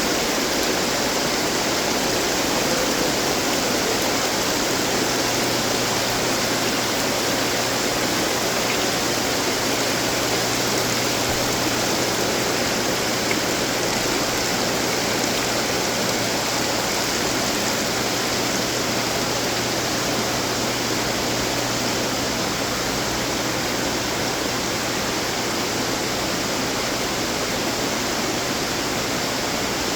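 Water splashing and trickling from decorative garden fountains, a steady, even rush with a faint low hum underneath.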